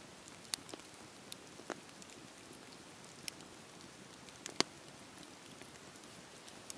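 Wood fire crackling in a fireplace: a soft steady hiss with irregular sharp pops and snaps, the loudest pop a little past halfway.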